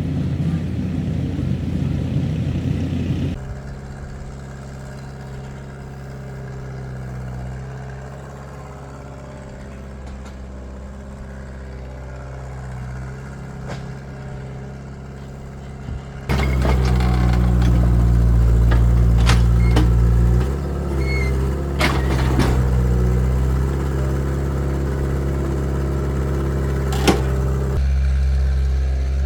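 Excavator engine running steadily, its level dropping about three seconds in and rising again sharply around sixteen seconds, as if throttled up, with a few sharp metallic knocks during the louder stretch.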